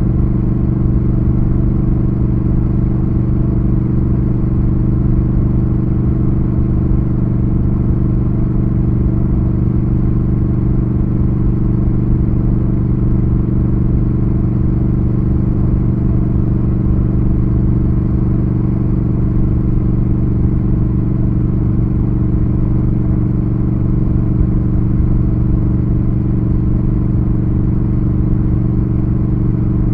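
Triumph Thruxton RS's 1200 cc parallel-twin engine running on the move at steady, unchanging revs, with no gear changes or revving.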